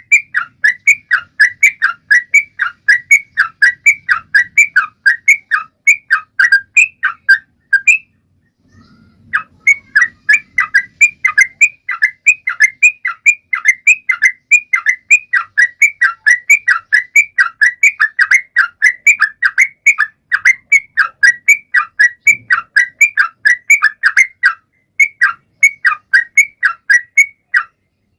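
Yellow-vented bulbul (trucuk) singing hard: a fast, even run of short, bright chirping notes, about three a second, broken by a pause about eight seconds in and a brief one near the end.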